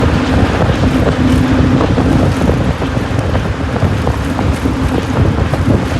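Loud, steady rumble of a moving vehicle, with wind buffeting the microphone and a faint steady hum under it.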